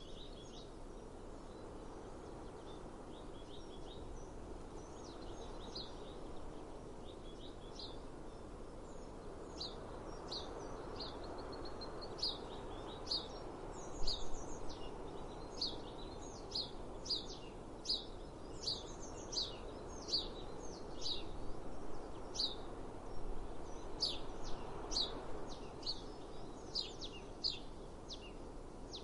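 A small bird chirping over and over: short, sharp, high chirps that grow busier about a third of the way in, coming about one or two a second, over a steady haze of outdoor background noise.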